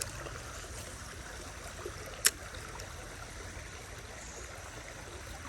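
Small creek's water running steadily, with one sharp click a little over two seconds in.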